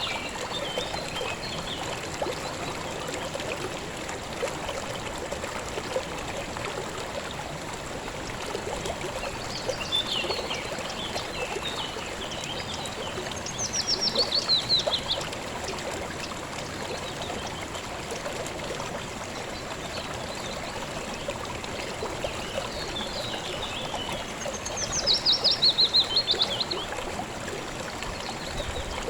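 River water flowing steadily over stones. A songbird sings over it: a twittering phrase about ten seconds in, then two louder phrases of quick falling notes, one around the middle and one near the end.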